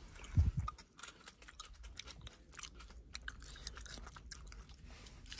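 Close-up chewing and biting of a cheesy grilled sandwich: many small crisp crunching clicks throughout, with a low thump about half a second in.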